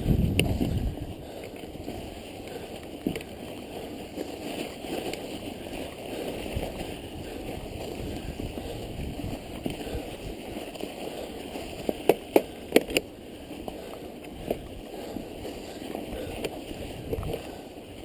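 Mountain bike riding through snow: tyres churning through snow and slush with a steady rumbling hiss. A cluster of sharp clicks and knocks comes about twelve seconds in.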